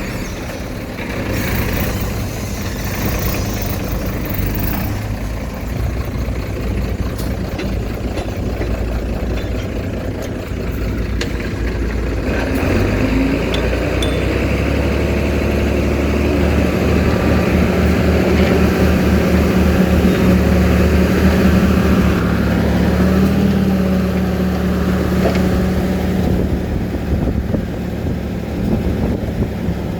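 Diesel engine of heavy earthmoving machinery running steadily, growing louder from about halfway through.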